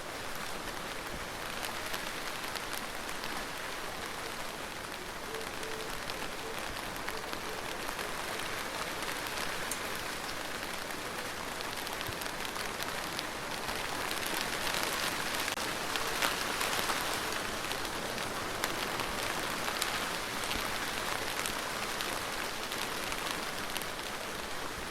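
Steady rain falling: a dense hiss of drops with fine scattered ticks, swelling a little louder about two-thirds of the way through.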